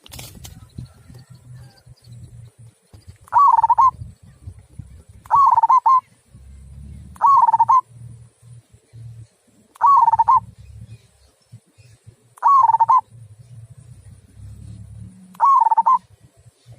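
Zebra dove (perkutut) cooing: six short cooing phrases about two to three seconds apart, over a low background rumble.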